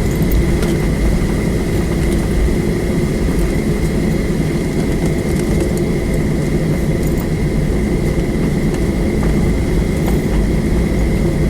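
Cabin noise inside a Boeing 737 on the ground before takeoff: the jet engines run at low power as a steady rumble, with a thin, high, steady whine over it.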